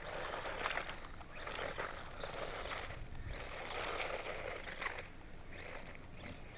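1/18-scale electric RC truck driving through grass, its tyres churning the grass in surges of swishing noise about a second long as the throttle comes on and off.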